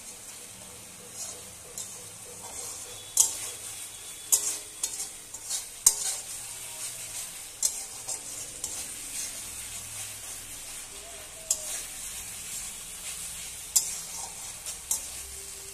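Spice paste with chopped coriander leaves frying and sizzling in a metal wok while a spatula stirs it down (the kashano stage of a Bengali curry). A steady hiss runs throughout, broken by irregular sharp clacks and scrapes of the spatula against the pan, the loudest about three, four and six seconds in and again near the end.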